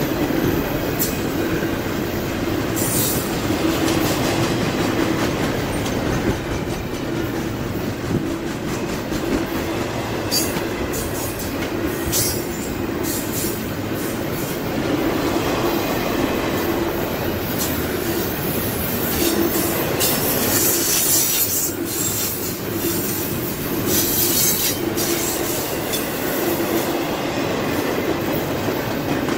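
Double-stack intermodal freight cars rolling past close by, steel wheels running on the rail in a steady noise, with brief high-pitched wheel squeals several times.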